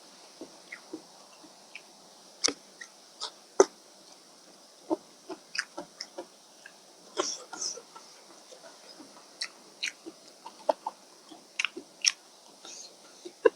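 Close-miked eating of rice noodles: chewing and mouth smacks, heard as a string of short clicks at irregular intervals.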